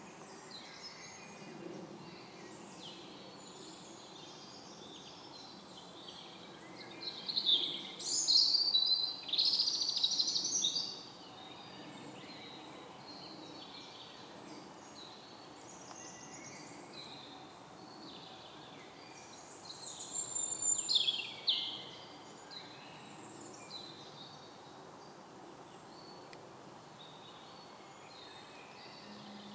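Several songbirds singing and chirping in woodland, with a faint steady background. Two louder bouts of song come from a nearer bird, about seven seconds in and again about twenty seconds in.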